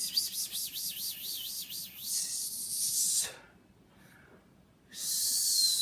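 Pet bird calling: a hissy, high-pitched call with a rapidly wavering whistle through its first couple of seconds, then after a short pause a second hissy call with a steady whistle near the end.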